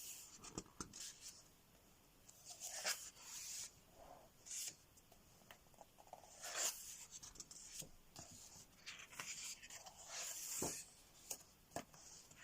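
Pages of a large coloring book with thick paper being turned by hand: a series of soft paper swishes and rustles, roughly every couple of seconds.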